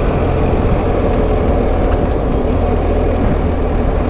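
BMW R1250 GS Adventure's boxer-twin engine running steadily at road speed, mixed with wind rushing over the microphone.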